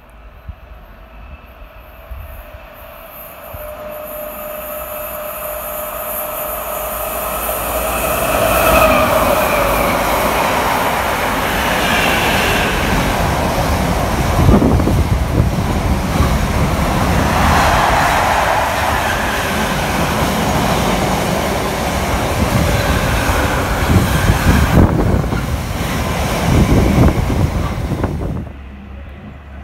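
Container freight train passing through a station. A whine builds as the train approaches and drops in pitch as the locomotive passes about nine seconds in. The container wagons then rumble and clatter past with brief wheel squeals, and the sound cuts off near the end.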